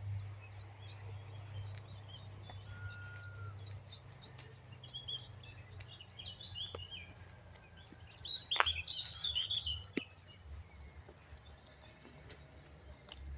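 Small birds chirping and calling in woodland, with short chirps coming thickest in the middle stretch, over a low steady rumble.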